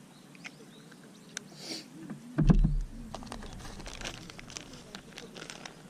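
A dull thump about two and a half seconds in, then scattered light clicks and ticks.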